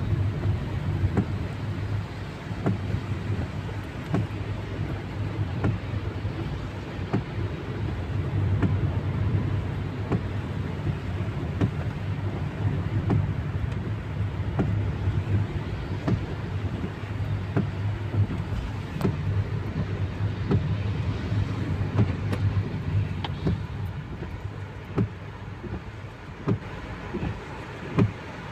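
Steady low hum of a car driving in rain, with scattered sharp taps throughout.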